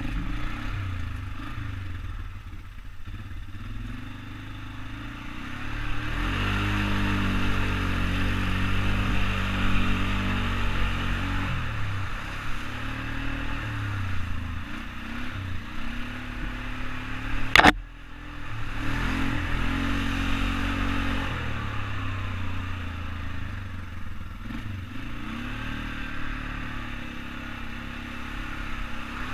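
ATV engine running while riding, its pitch rising and falling as the throttle opens and closes, with a steady hiss over it. A single sharp knock about two-thirds of the way through is the loudest moment.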